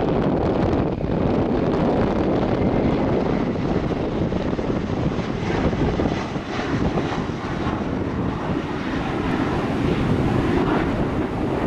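Airliner engines giving a steady rushing noise, with wind on the microphone.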